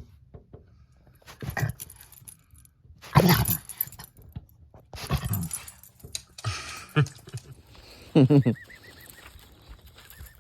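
A dog whining and giving short barks, about six separate calls spaced through the stretch, the loudest a little after three seconds in and again past eight seconds.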